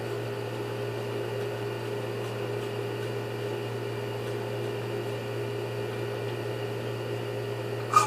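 A steady low mechanical hum, like a small electric motor or fan running, with a sharp click near the end.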